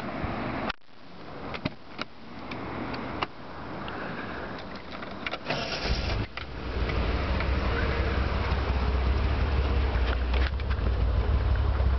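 Exhaust of a 1979 Reliant Scimitar GTE's 3.0-litre Ford Essex V6. It drops quieter just under a second in, with a few clicks; about halfway through comes a short loud burst, after which the engine settles into a steady, deep exhaust note.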